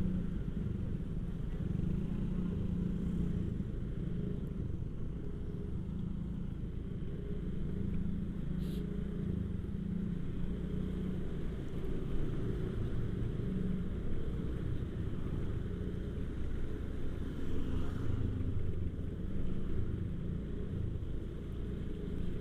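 Motorcycle engine running steadily as it is ridden, a low, continuous hum whose note wavers slightly up and down.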